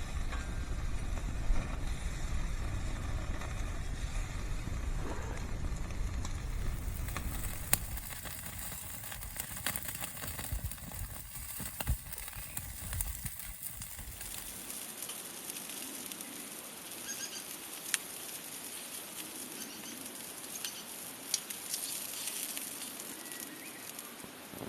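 Wind buffeting the microphone as a heavy low rumble; it stops suddenly at a cut about fifteen seconds in. A fine steady hiss with scattered small crackles and clicks follows.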